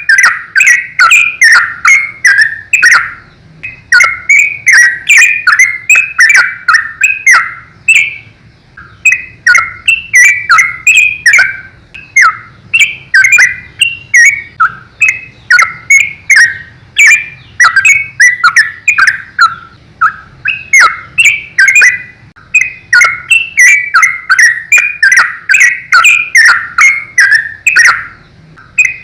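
Yellow-vented bulbul (trucukan) calling rapidly and without let-up, long runs of short, quick chattering notes with only brief pauses between runs.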